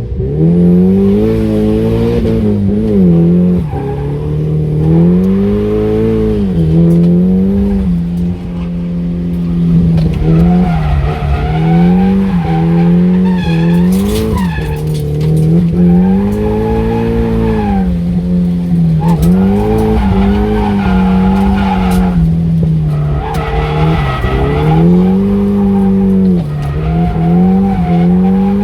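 Nissan S15 Silvia's four-cylinder engine revving up and down again and again while drifting, the revs swinging about every two seconds, with tyres squealing.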